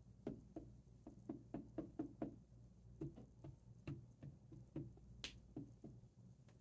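Soft, quick tapping, about three or four light taps a second with a brief pause midway, as an ink pad is dabbed repeatedly to apply ink.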